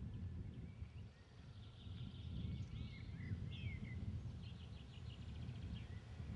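Songbirds chirping faintly: a few short gliding calls about halfway through, then a rapid trill of repeated notes, over a steady low rumble.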